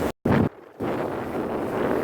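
Wind buffeting the microphone over the steady running noise of a motorboat. The sound cuts out abruptly twice within the first second.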